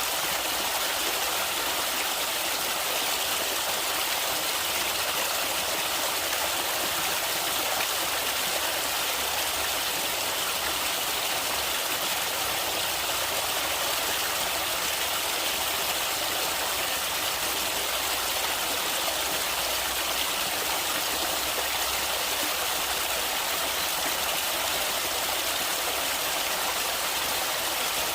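Natural flowing water of a stream, a steady rushing hiss without breaks.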